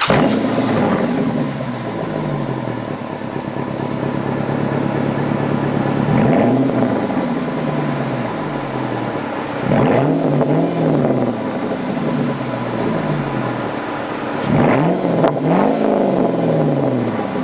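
2006 Dodge Charger Daytona R/T's 5.7-litre Hemi V8 running through a Zoomers exhaust. It idles just after start-up, with the fast idle settling down over the first couple of seconds. It is then revved briefly about six, ten and fifteen seconds in, and the last rev is a double blip.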